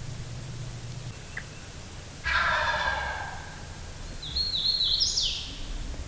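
A wild turkey gobbler gobbling once, about two seconds in: a single loud rattling call lasting about a second. A brief high chirping call from a smaller bird, rising in steps, follows near the end.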